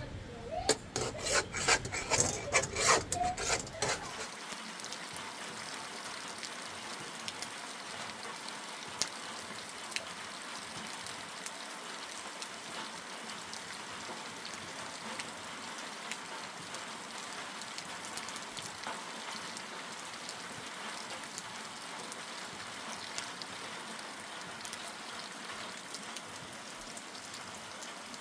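Clattering knocks and clicks for the first few seconds, then steady rain falling, an even hiss with scattered ticks of drops.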